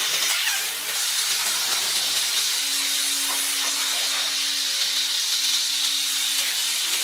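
Steady hiss of compressed air in a tyre shop, such as an air line inflating a tyre or blowing through a fitting. A faint steady hum joins it about two and a half seconds in.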